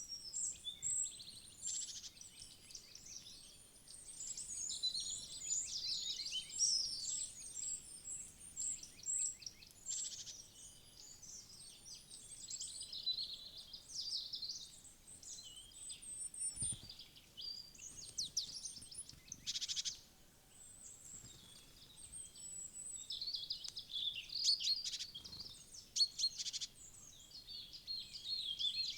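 Many small songbirds calling and singing together, a dense, continuous chorus of high chirps with bursts of fast trills.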